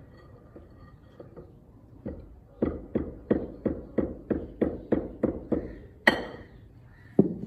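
Hand hammer striking repeatedly at about three blows a second, then a louder, sharper ringing strike near the end, as work proceeds on fitting the water pump motor.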